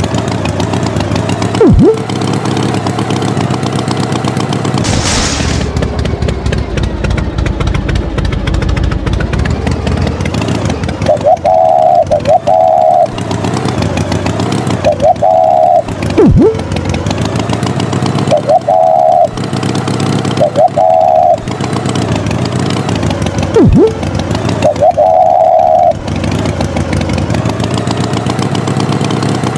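An engine sound effect running steadily throughout. Over it, pairs of short high tones repeat every few seconds, along with quick falling swoops.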